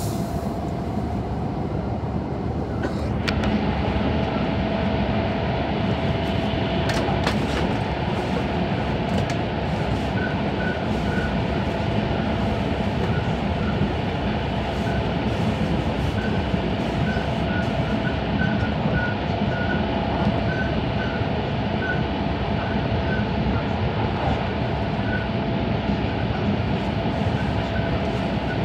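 Cabin noise inside a JR East E5 series Shinkansen running at speed: a steady rumble of wheels and rushing air with a faint steady hum, growing a little louder a few seconds in, with a few brief clicks early on.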